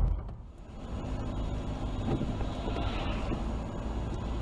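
Car on the move: steady engine and road rumble as picked up by a dash cam.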